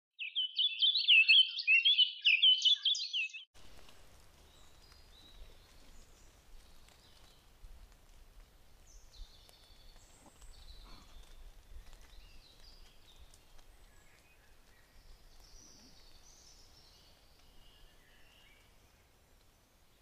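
A loud, rapidly warbling bird song for about the first three and a half seconds. After that come faint forest ambience, scattered distant bird calls and a low rumble.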